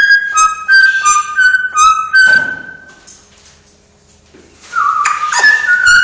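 A pet parrot whistling a run of short, clear notes that step up and down in pitch; it falls quiet about two seconds in and starts whistling again near the five-second mark.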